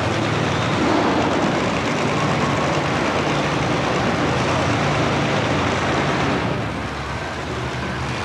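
Monster truck engine running loud and hard in an indoor arena, with a steady low drone under a dense roar. It eases off a little about six and a half seconds in.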